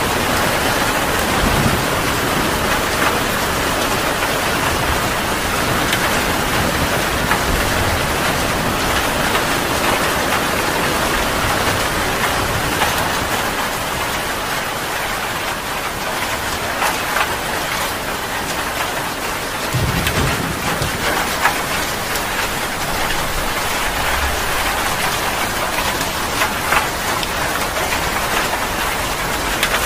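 Heavy rain pouring steadily, with low rumbles of thunder now and then, the clearest about twenty seconds in.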